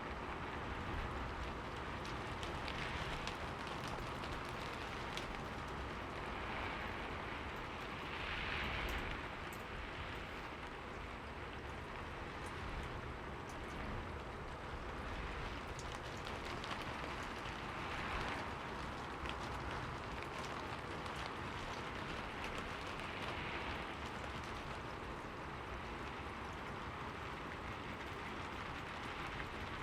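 Steady rain falling, with scattered drops ticking and the downpour swelling a little every few seconds.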